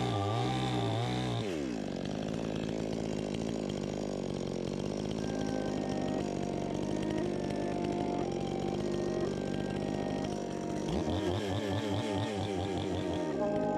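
Chainsaw engine running, revving up and down in the first second or two, running steadily for most of the time, then revving again near the end.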